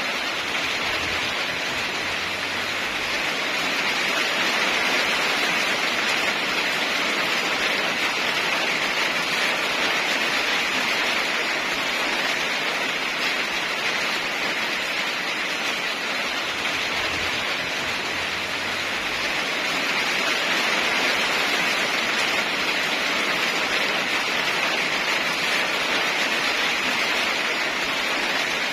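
Heavy rain falling steadily, an even hiss that swells slightly louder a few seconds in and again about two-thirds of the way through.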